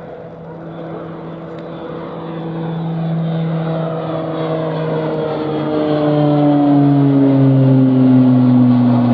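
Aircraft passing close by. Its engine hum is a set of steady tones that slide slowly down in pitch as it grows louder toward the end.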